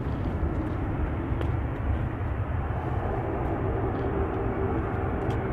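Jet airliner engine noise, a steady low rumble, with a faint whine coming in about halfway through.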